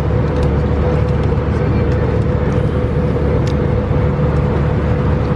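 Airbus A320 cabin noise in cruise: a steady, loud, low rumble of engines and airflow with a constant hum running through it, and a few faint clicks.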